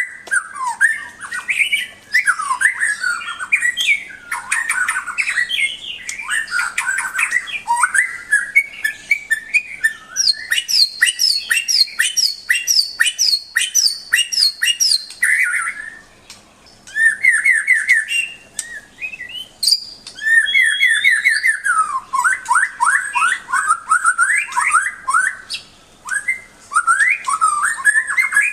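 White-rumped shama (murai batu) singing a long, varied song of loud whistled phrases. In the middle it runs through a series of evenly repeated notes, with brief pauses between phrases later on.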